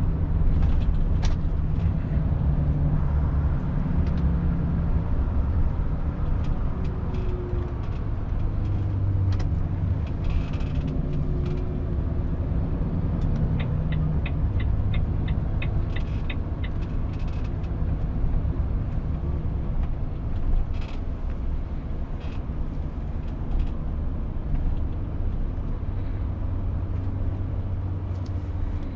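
A 2019 Volvo FH 500 truck on the move, heard from the cab: its 13-litre six-cylinder diesel runs with a steady low drone, with scattered small clicks and rattles. A run of about ten quick, even ticks sounds in the middle.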